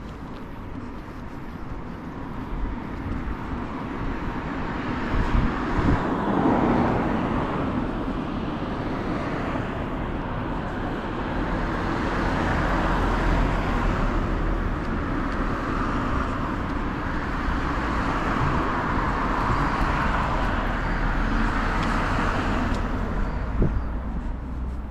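Road traffic: a steady rush of vehicles going by, swelling about five seconds in and staying up, over a low rumble.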